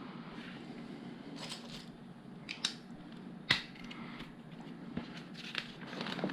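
Plastic LEGO pieces being handled: a light rustle of bricks with a few sharp clicks, the loudest about three and a half seconds in.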